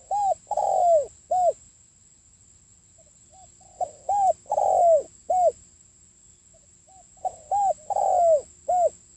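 Spotted dove cooing: a phrase of a few soft short notes followed by three loud arched coos, the middle one long and drawn out, given three times about four seconds apart. This is the call played as a lure to draw in spotted doves. A faint steady high whine runs underneath.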